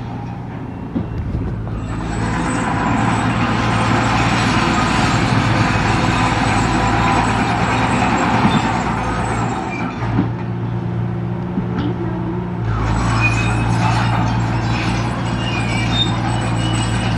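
Heavy diesel construction machinery running, a steady low engine hum with two long louder, noisier stretches, the first from about two seconds in to about ten, the second from about thirteen seconds on.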